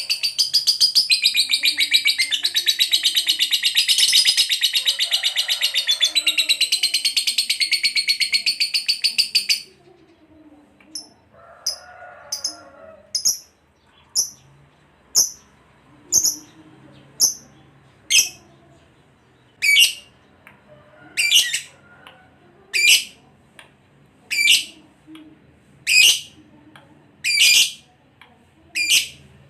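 Lovebird singing a long, rapid chattering trill for about nine and a half seconds, then breaking off into single sharp chirps about once a second.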